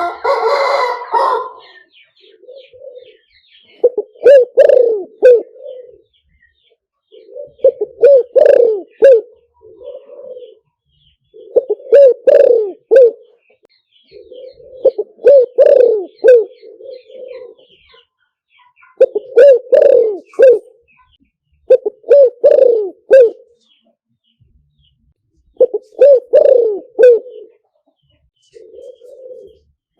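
Spotted dove cooing in repeated phrases about every three to four seconds, the call used as a decoy to lure wild spotted doves. A short noisy rustle comes right at the start.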